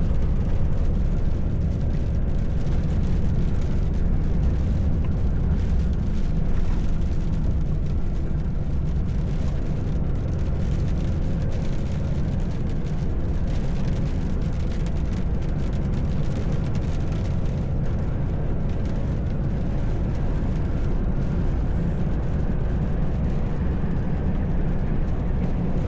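Truck cab interior: a steady low drone of the engine and tyre and road noise while driving, with a faint steady whine above it.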